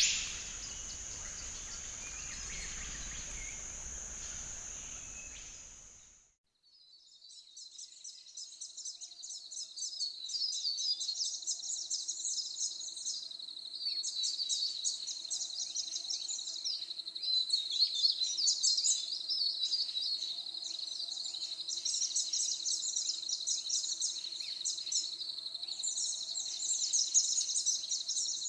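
Many small birds chirping and singing together over a steady high-pitched drone, fading in after a short gap about six seconds in. Before the gap, a steady high hiss with a low rumble fades out.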